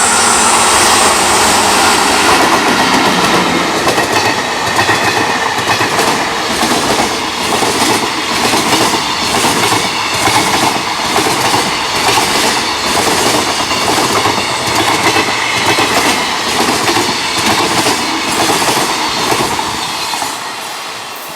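Freight train wagons passing at speed, their wheels clattering over rail joints in a steady, regular rhythm. The clatter fades near the end.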